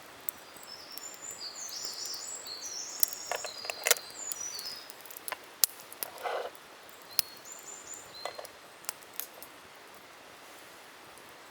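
A songbird singing a quick run of short high chirps and warbles over a few seconds, then falling silent. Scattered sharp clicks and a brief rustle come through during and after the song.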